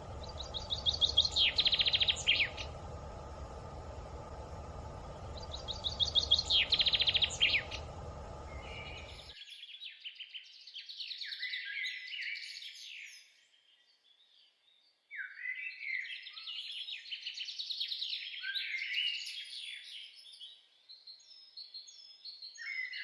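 Songbirds singing. A trilled phrase that falls in pitch and ends in a flourish is heard twice, about five seconds apart, over a steady low background hum. About nine seconds in the hum drops out suddenly, and a more varied run of chirps and warbles carries on, with a short break in the middle.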